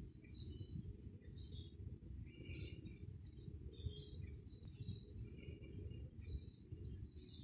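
Birds chirping faintly and intermittently over a steady low background rumble.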